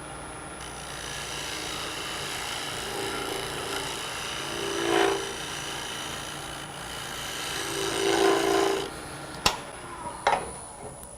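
Wood lathe running while a gouge cuts the spinning maple, a steady scraping hiss that swells twice as the cut bites harder. Near the end the cutting stops and a few sharp knocks follow.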